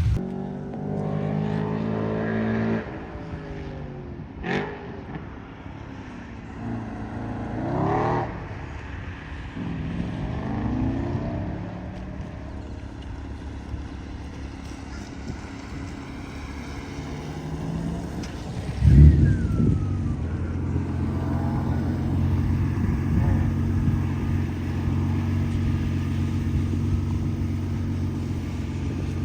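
Car engines revving on a track, their pitch rising and falling as the cars accelerate and pass. About 19 seconds in there is a loud low thump, and after it a nearby engine runs steadily.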